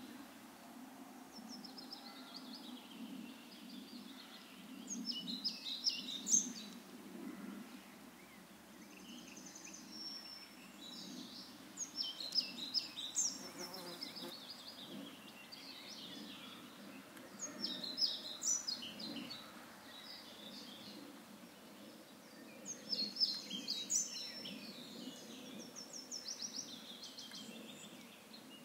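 A songbird singing short phrases of quick high notes, repeated about every five to six seconds, over a steady low background rumble.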